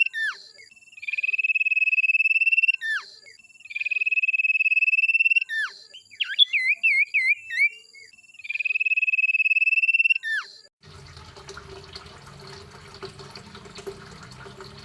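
A songbird singing a long, steady, high trill three times, each ending in a quick downward-sweeping note, with a run of rapid wavy notes between the second and third trills. The song stops suddenly about 11 seconds in, leaving a steady low hum and background noise.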